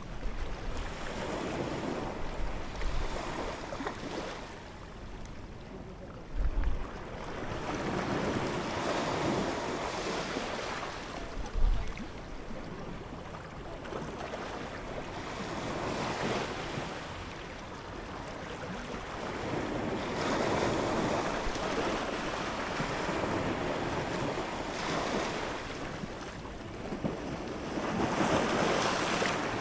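Ocean waves breaking and washing in, rising and falling every few seconds. Wind buffets the microphone in two brief low thumps.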